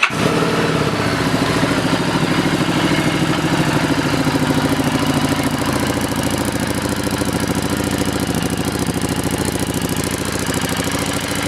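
Harley-Davidson Street 750's liquid-cooled V-twin idling steadily through an aftermarket Screaming Eagle exhaust.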